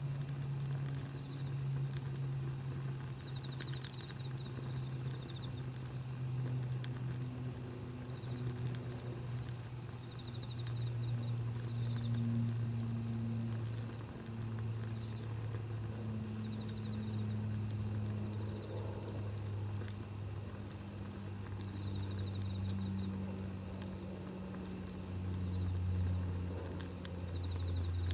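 Steady low mechanical drone, like a distant engine, with its pitch slowly stepping lower, plus faint high chirps now and then.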